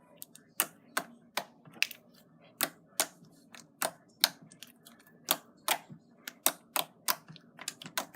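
Jiggly slime being worked by hand, making sharp popping clicks about two or three times a second.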